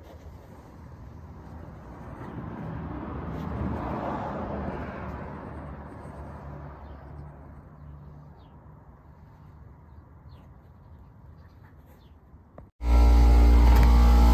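A road vehicle driving past, its engine sound swelling and then fading away. About 13 seconds in the sound cuts off abruptly and a much louder, steady machine sound begins, with a strong low hum and several constant tones.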